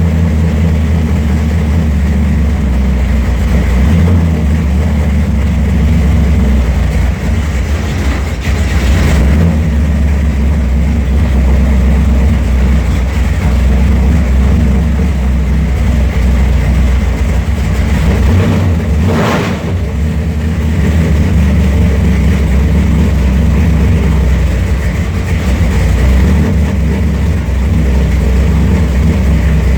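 Chevrolet 454 big-block V8 running just after a cold start, a steady deep idle, with two brief rushes of noise about nine and nineteen seconds in.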